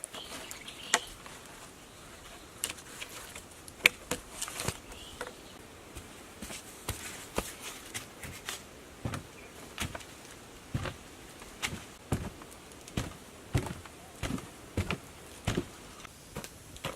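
Repeated sharp knocks of a tool chopping or striking wood, scattered at first, then settling into a steady rhythm of about one to two blows a second.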